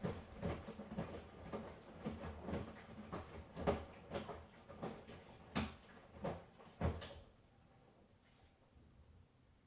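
Miele washing machine drum turning the wash, with the laundry dropping in an uneven run of soft thuds, about two a second. The knocks stop about seven seconds in, as the drum pauses, and it goes quiet.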